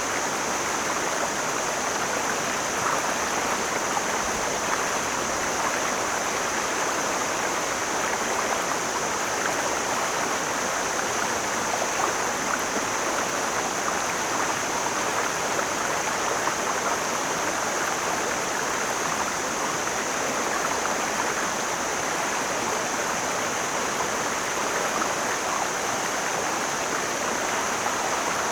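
Mountain stream flowing: a steady, even rush of water that does not change, with a steady high hiss alongside it.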